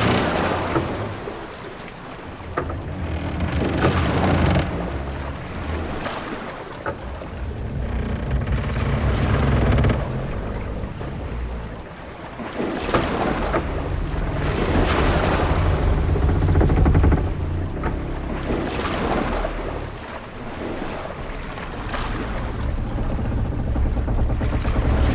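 Ambience of a wooden sailing ship at sea: waves wash against the hull in slow swells every few seconds under a low rumble, with wind and scattered short creaks and knocks of timber.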